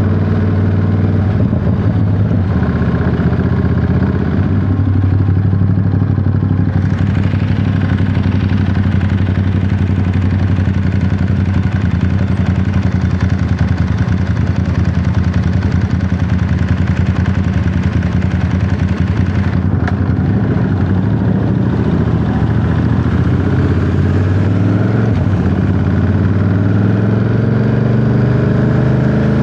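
Ducati Monster 937's 937 cc V-twin engine and exhaust running under way at a fairly steady cruise, the engine note holding mostly level with small rises and falls in revs.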